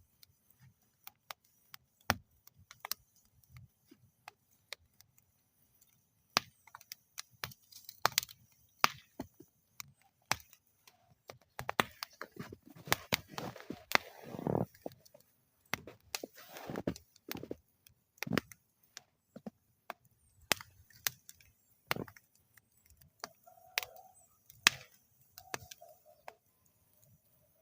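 Wood fire burning in a metal fire bowl, crackling with irregular sharp pops and snaps that come thickest around the middle, with a brief rush of flame-like noise there.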